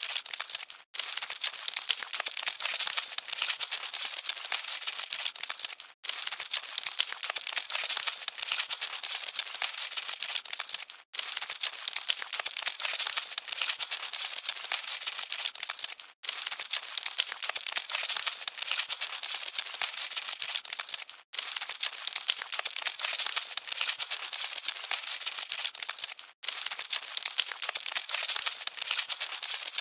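Cockroaches scuttling: a dense, even crackle and rustle. It plays as a short loop that cuts out for an instant about every five seconds.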